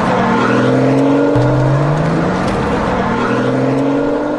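Car engine accelerating through the gears: the pitch climbs steadily, falls back sharply at a gear change about a second and a half in, then climbs again.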